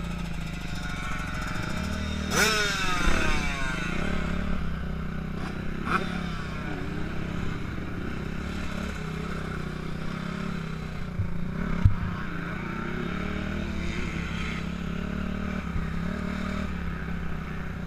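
Suzuki RM-Z 250 four-stroke single-cylinder motocross bike running at low revs, blipped twice to a quick rising rev about two and a half and six seconds in. A single sharp knock near the end.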